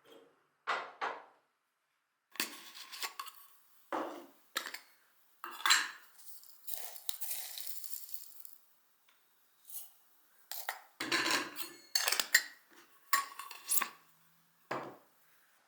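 Dishes and eating utensils knocking and clinking on a table, a series of short irregular clicks, some ringing briefly, with a longer scraping rustle partway through.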